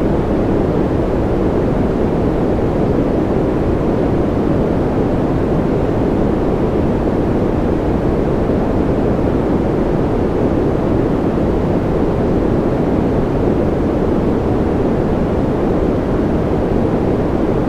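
Steady white noise from a sleep track: an even, unbroken rushing hiss, deep-sounding, with its weight in the low and middle pitches.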